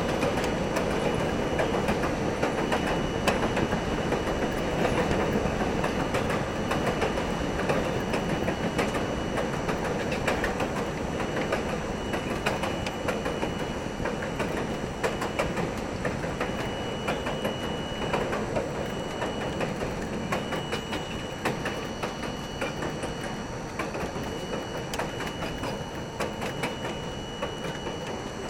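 R42 subway car running along the track: a steady rumble with the wheels clicking over rail joints and a faint, intermittent high whine. It grows slightly quieter toward the end.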